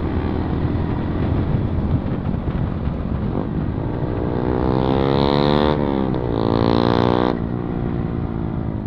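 Yamaha MT-15 motorcycle running through a modified, loud exhaust with its dB killer removed, rising in pitch twice as it accelerates, with a short dip between about six seconds in, then settling back.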